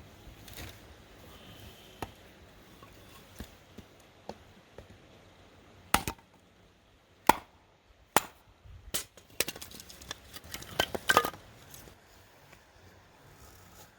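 A series of sharp, separate knocks: single hits about six, seven and eight seconds in, then a quick irregular clatter of clacks near the end.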